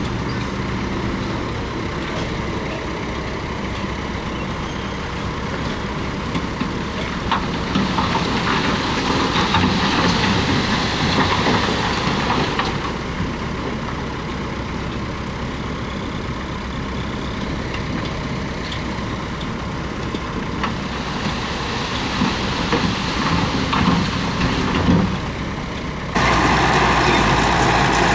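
Komatsu D31P crawler bulldozer's diesel engine running. It gets louder in two stretches, about a third of the way in and again past two-thirds, with rattling and scraping as the dozer works. Near the end the sound jumps suddenly to a louder, steadier engine noise.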